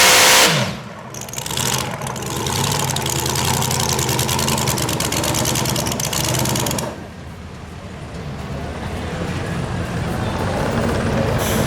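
Super modified 4WD pulling truck's engine at full throttle is cut about half a second in, its pitch falling away. A rough, rapidly pulsing engine rumble follows and drops off about seven seconds in, then engine noise builds again near the end.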